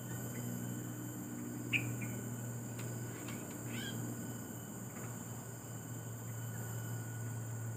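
A few short, high bird chirps, one near two seconds in and a small cluster a second or two later, over a steady high insect drone and a low steady hum.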